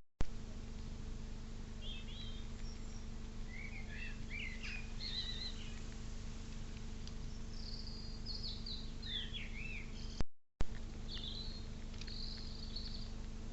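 Small birds chirping and calling in short, scattered phrases over a steady low hum and background noise; the sound cuts out for a moment about ten seconds in.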